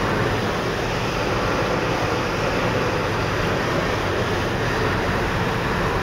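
Steady road and wind noise inside a car cabin at highway speed, about 65 mph: an even roar with no breaks.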